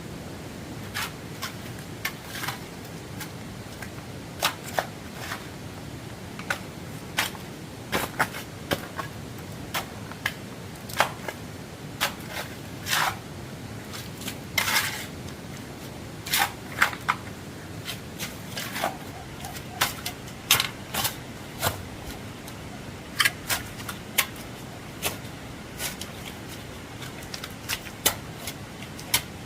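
Irregular sharp taps and knocks, about one or two a second, over a steady hiss.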